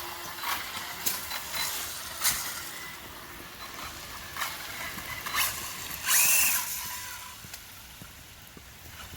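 Arrma Typhon RC buggy's brushless electric motor driven in short, irregular throttle bursts, each giving a quick whine and rush of noise. The loudest burst comes about six seconds in.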